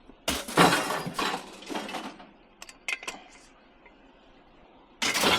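A folding metal clothes horse clattering and clinking as it is picked up and handled, with a few sharp knocks and a last loud clatter near the end.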